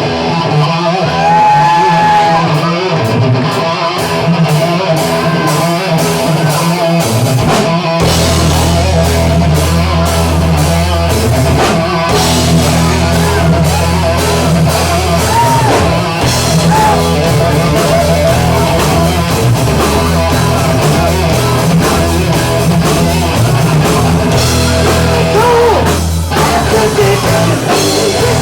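Hard rock band playing live and loud, with an electric guitar over a steady ticking cymbal. About eight seconds in, bass and drums come in and the full band plays on.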